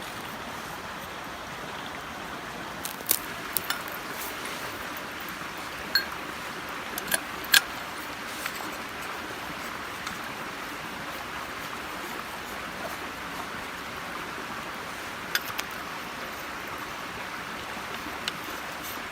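Steady rush of river water, with a handful of sharp clicks or knocks scattered through it, mostly in the first half.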